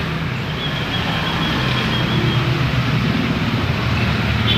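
Steady low rumble of a motor vehicle. A faint thin high whistle runs from about half a second in for two seconds, and a short high note comes near the end.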